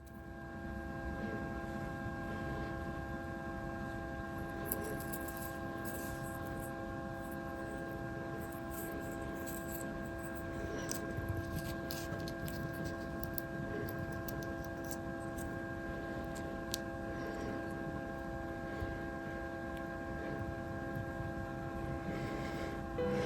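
A steady electrical or mechanical hum with several fixed tones over a low rumble, with faint scattered ticks and scratches, most of them in the first half.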